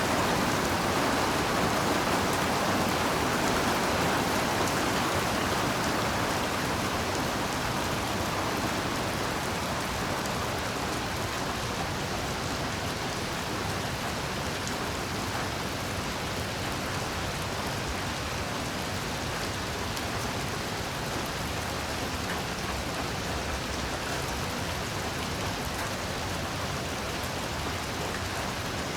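Heavy rain falling steadily, a dense even hiss with scattered drop hits, easing a little in loudness over the first ten seconds or so.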